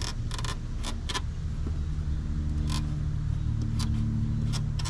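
Scattered sharp metallic clicks and clinks of hand work on the brake assembly, over a steady low vehicle engine hum that grows a little louder after the first second or so.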